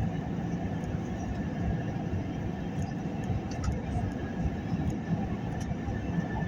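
Steady low rumble of an airliner landing, with a faint, thin, steady whine above it.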